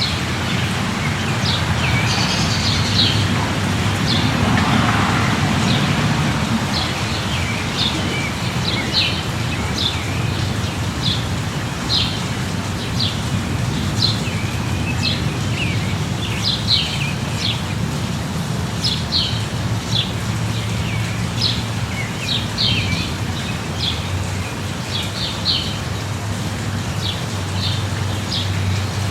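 Steady light rain with a low, even rumble underneath, while small birds give short high chirps over and over, roughly one or two a second. A brief swell in the background rises and fades about four to six seconds in.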